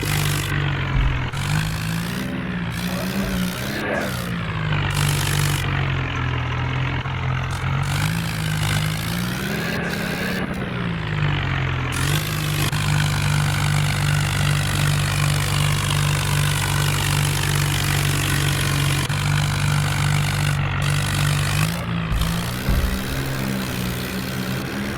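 Tractor engine running, its pitch rising and falling as the revs go up and down a few times, with a longer steady stretch in the middle.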